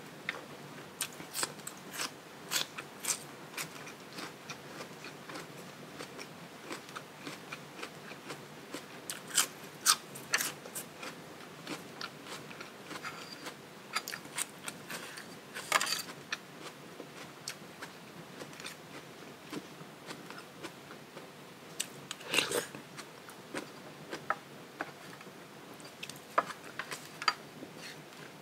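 Close-up mouth sounds of a person eating: chewing and biting with scattered sharp crunches and clicks at an irregular pace, the loudest about 10, 16 and 22 seconds in.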